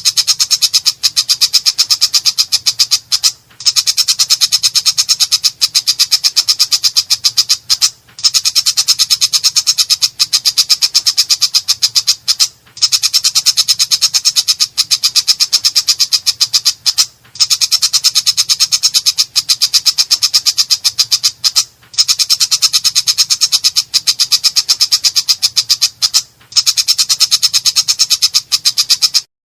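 Long-tailed shrike (cendet) singing a harsh, rapid-fire chatter: a dense train of scratchy notes in phrases about four and a half seconds long, with brief breaks between them. It cuts off abruptly near the end.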